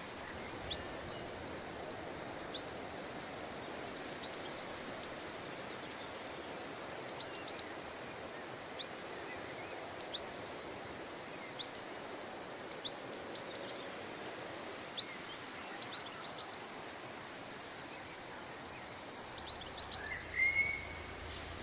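Wild songbirds chirping: many short, high chirps throughout over a steady outdoor hiss, with one louder rising whistle near the end.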